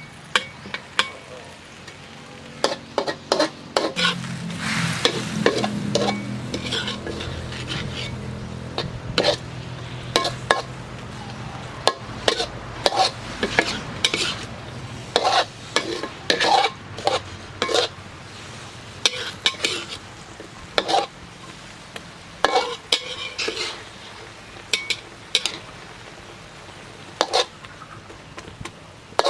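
A utensil stirring food in a frying pan, clicking and scraping against the pan again and again, with frying sizzle that swells about four seconds in and dies down after about twelve seconds.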